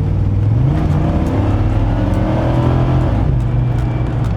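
A loud car engine revved hard as the car accelerates, its pitch rising twice and dropping back a little past three seconds in.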